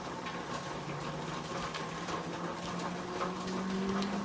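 A marker scratching out a label on a plastic freezer bag in faint short strokes, over a steady low kitchen hum that rises slightly in pitch.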